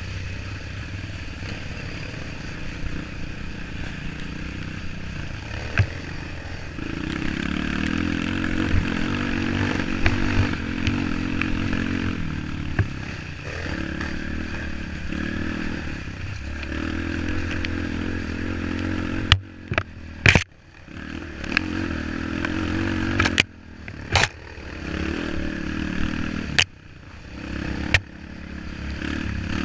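Trail motorcycle engine running as it rides, the throttle opening up and getting louder a few seconds in. In the second half come several sharp knocks and clatter, with the sound cutting out briefly and suddenly a few times.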